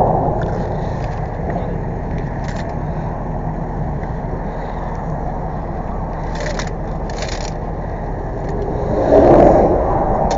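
A vehicle engine running steadily at idle, with a swell of louder noise about nine seconds in and a few light clicks.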